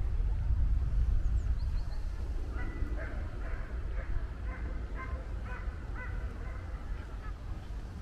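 A bird calling over and over, about two calls a second, from a couple of seconds in until near the end, over a steady low outdoor rumble.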